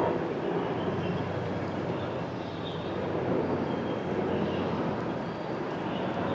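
Steady outdoor background noise, with faint short high chirps now and then.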